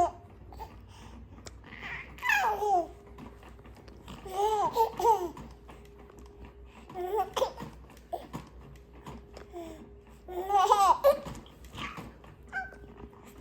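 A small child babbling and laughing in several short bursts, with high squealing glides in pitch, over a faint steady hum.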